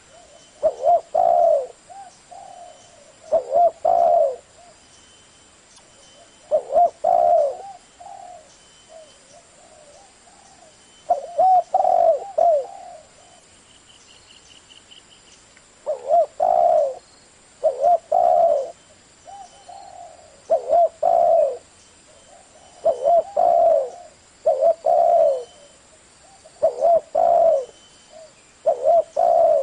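Spotted dove cooing in the deep 'thổ' voice, in repeated phrases of a few low coos, one phrase every two to three seconds. It is a lure call, meant to stir other doves into calling back.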